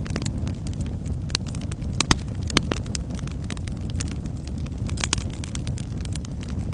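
Wood fire in a fireplace crackling: a steady low rumble of flames with irregular sharp snaps and pops, a few louder pops about two seconds in.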